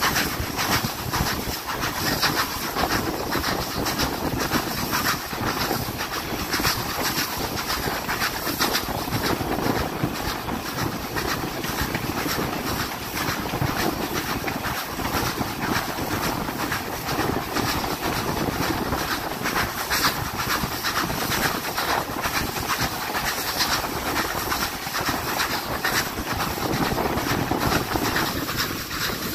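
Steam train running along the track: a steady rumble of the moving train with a dense, irregular clicking of wheels on the rails.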